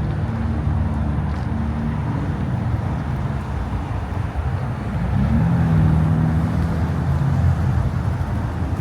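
A vehicle engine running steadily, its pitch rising about five seconds in and holding a little higher and louder, over general outdoor crowd and traffic noise.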